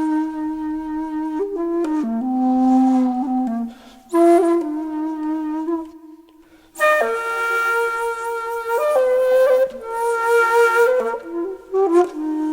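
Background music: a solo flute-like wind instrument playing a slow melody of long held notes, with a short pause about six seconds in.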